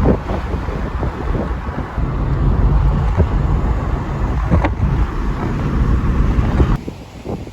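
Wind buffeting the microphone: a loud, gusty rumble that drops away sharply near the end.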